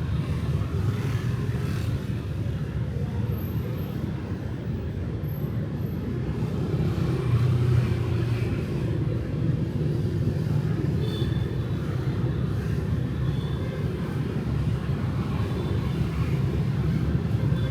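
Night city street traffic, mostly motorbikes with some cars, passing in a steady low rumble that swells a little about seven to eight seconds in.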